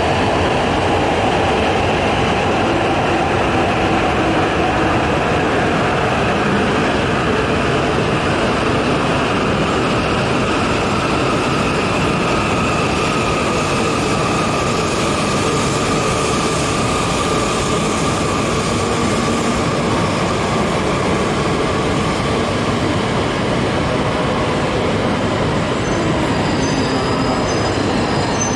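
E5 series Shinkansen train, with an E3 series coupled behind, running slowly alongside the platform and braking. Its motor whine slowly falls in pitch over a steady rumble of wheels on rail.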